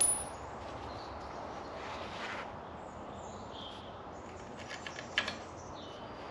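Light clicks and knocks of metal parts being handled: a sharp one at the start and a quick run of them about five seconds in, with a few faint bird chirps in the background.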